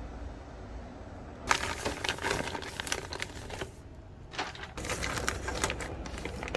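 Packaging crinkling as it is handled, in two bursts of small crackly clicks: one starting about a second and a half in, the other in the second half.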